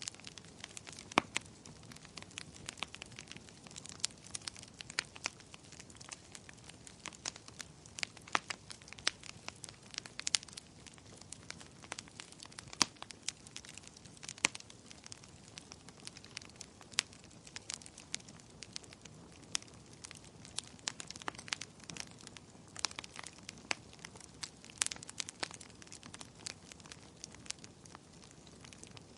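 Wood fire burning in a fireplace: irregular sharp crackles and pops, scattered unevenly over a low steady hiss of the flames.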